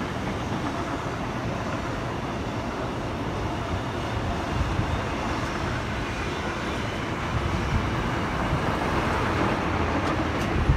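Freight train rolling past, a steady rumble with wheel and rail noise that grows a little louder near the end.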